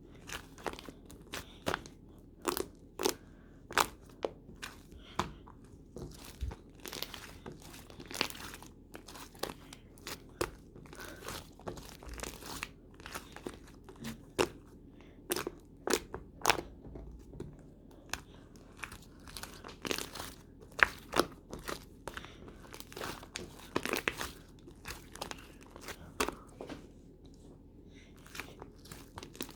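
Close, irregular crunching and crinkling: several sharp clicks and snaps a second, with louder cracks scattered throughout.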